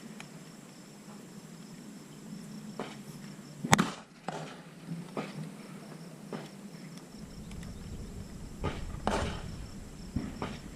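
Scattered short clicks and knocks, with one much louder sharp crack about four seconds in. A low steady rumble comes in about seven seconds in.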